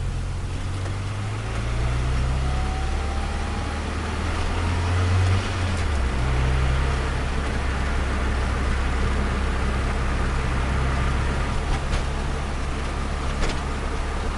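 Turbocharged Nissan Micra engine running: its low note shifts a couple of times in the first six seconds, with a faint rising whine, then holds steady. A few light clicks near the end.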